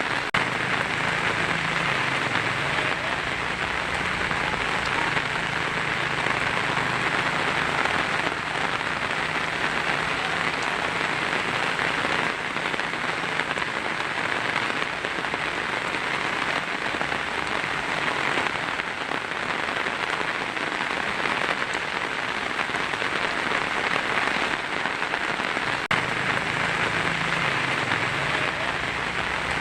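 Heavy rain drumming steadily on a tin roof, an even, unbroken wash of patter.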